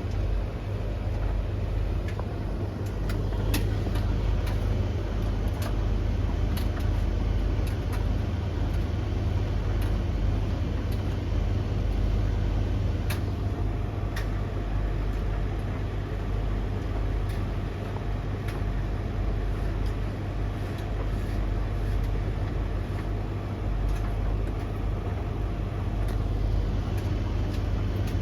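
Three tumble dryers running at once, drums turning mid-cycle with a steady low rumble. Scattered light clicks and taps come from the load tumbling, and a faint steady whine joins about halfway through.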